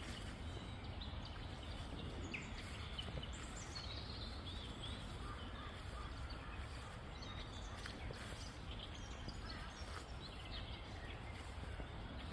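Birds chirping and calling intermittently over a steady, low outdoor background noise.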